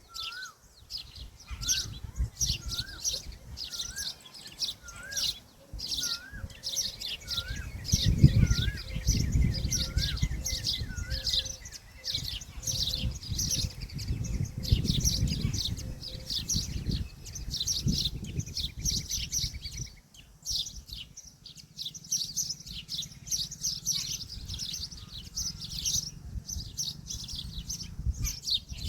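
Many small birds chirping and twittering without a break, with a short rising whistled note repeated about once a second through the first ten seconds. A low rumble runs underneath.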